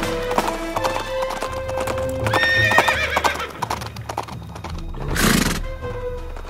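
Horse hooves clip-clopping at a gallop, with a horse whinnying about two and a half seconds in, over background music. A short rushing noise comes about five seconds in.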